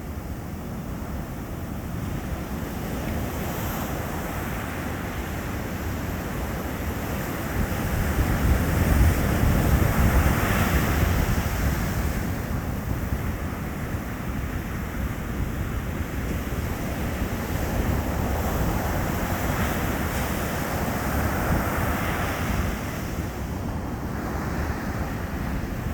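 Ocean surf breaking on a beach: a steady wash of waves, with a larger wave crashing and surging about a third of the way in and another swell near the end.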